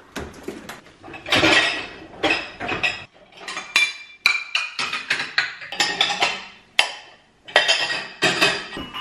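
Dishes and cutlery clattering and clinking as they are handled, with many quick knocks and a few brief ringing tones.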